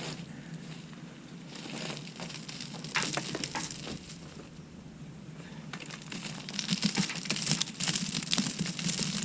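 Mulch crunching and rustling as it is handled and spread, with scattered crackles that grow busier from about six seconds in.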